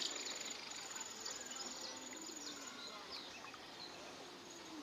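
Insects trilling in a high, steady, fast-pulsed buzz that stops a little past halfway and starts again near the end, with faint distant voices underneath.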